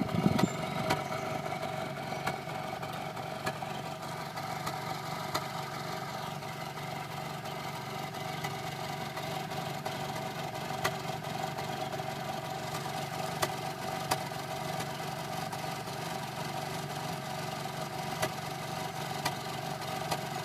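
2001 Honda Accord's exhaust at the tailpipe with the engine idling steadily, making a bubbling sound with a few brief pops; the owner doesn't know what fault it points to.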